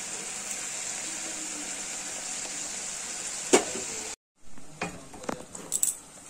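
Mustard, onion and green-chilli paste sizzling steadily in a kadai as a metal spatula stirs it, with one sharp clack of the spatula against the pan about three and a half seconds in. After a brief dropout it is quieter, with a few light scrapes and taps of the spatula.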